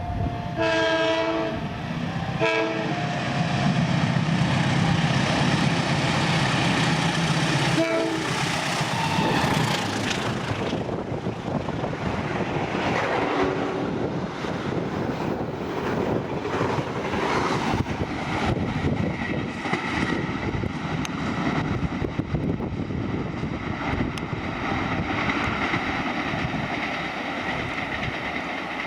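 Freight train passing: the locomotive horn sounds two short blasts in the first few seconds, the locomotive's engine drones past, then the wagons roll by with a steady rumble and repeated clatter of wheels over rail joints.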